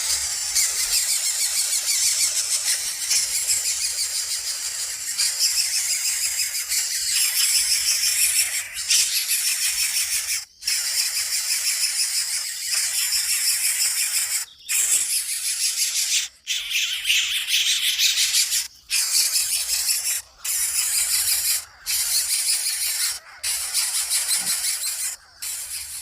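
Coucal nestlings making a harsh, high-pitched hissing begging sound. It runs continuously, broken by short pauses every second or two from about a third of the way in.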